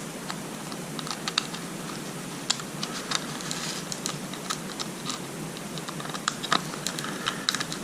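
Irregular small clicks and taps of a screwdriver and tiny screws against a metal distributor while a new condenser is being screwed into place, over a steady low hiss.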